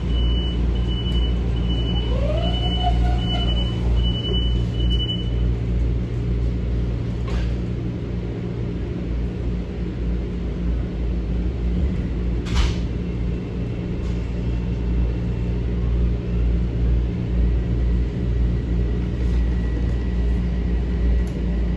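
Metro-North M7A electric commuter train car running, heard from inside as a steady low rumble. A high beep repeats a little faster than once a second for the first five seconds, a short rising whine comes about two seconds in, and a single sharp click comes near the middle.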